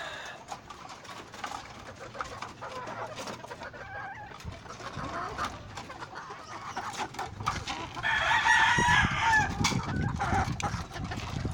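Game fowl roosters crowing, with hens clucking. The loudest crow comes about eight seconds in.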